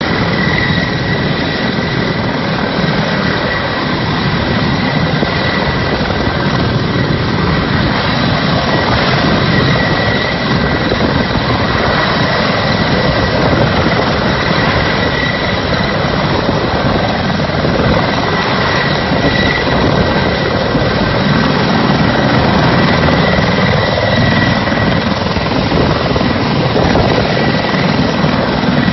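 Mi-35M attack helicopter running, its steady high turbine whine over the rotor and engine noise.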